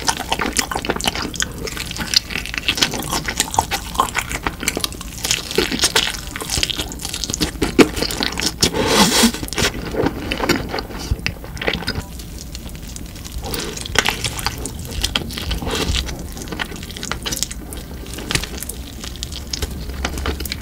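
Close-miked ASMR eating: wet chewing and mouth smacking, with dense irregular clicks and a heavier wet burst about nine seconds in.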